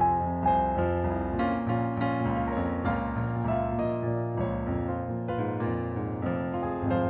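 Piano or electric piano music, notes changing steadily over a sustained low bass.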